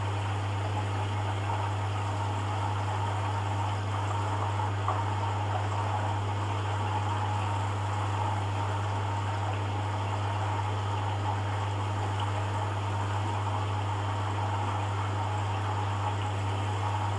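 Hoover Dynamic washing machine in its rinse cycle: water running in the drum over a steady low hum.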